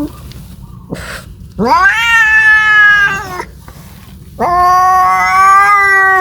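Domestic cat yowling in two long, drawn-out calls: the first rises in pitch and then holds, the second starts about four seconds in and is still going at the end. Caterwauling of the kind a cat makes when calling for a mate.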